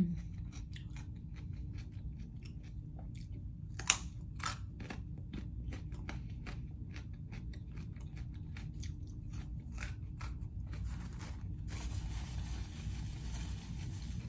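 Close-up crunching and chewing of a raw carrot stick: a run of crisp crunches, with one sharp, louder snap about four seconds in. In the last few seconds the crunches give way to a soft, steady paper-napkin rustle.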